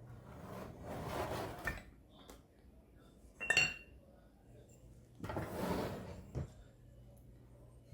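Kitchenware being handled: two stretches of scraping or rubbing, and a single ringing clink of metal or glass in the middle, with a couple of light knocks.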